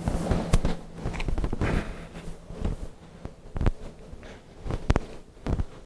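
Footsteps walking over wooded ground: irregular steps, with some sharper clicks among them.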